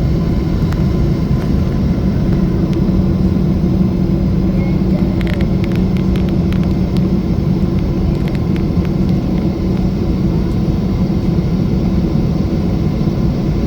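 Steady jet cabin noise aboard a Boeing 777-300 in flight: a constant loud rumble of engine and airflow with a steady low hum. A few faint light clicks come around the middle.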